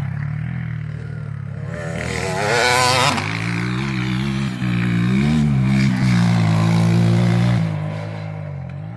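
Motocross bike engine running hard, its pitch rising and falling as the throttle is worked. It swells about two seconds in and again in the middle, then drops away and fades near the end.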